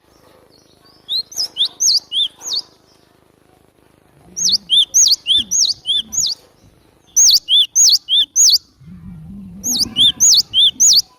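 Cinereous tit (glatik batu) singing: four bursts of quick, high, repeated two-note whistled phrases with short pauses between them, the song used as a lure call for the species.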